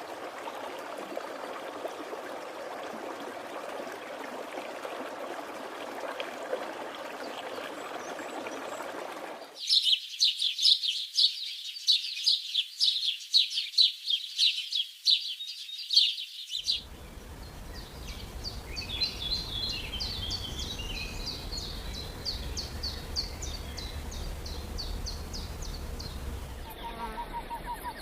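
Bird sounds in separate clips joined by abrupt cuts. The first is a steady rushing noise. The second is a loud, rapid series of high repeated notes lasting about seven seconds. The third is softer high chirping over a low hum.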